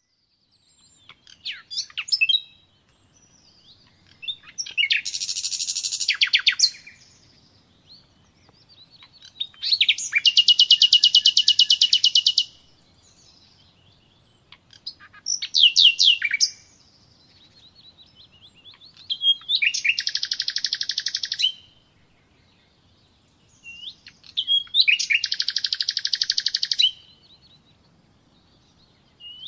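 A songbird singing in phrases: fast, even trills of one to two and a half seconds, about five of them, alternating with short sliding whistled notes.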